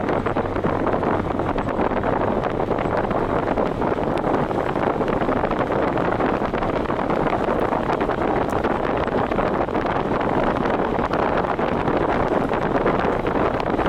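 Steady wind and road rush from a vehicle driving at speed, with wind buffeting the microphone.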